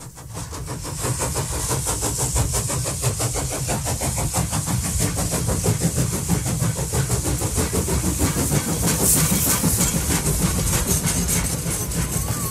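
Train running on track: a steady low rumble and hiss with fast, even clatter, fading in at the start.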